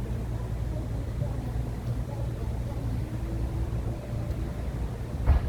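Sea wind buffeting the microphone in a steady low rumble, with a single sharp thump near the end.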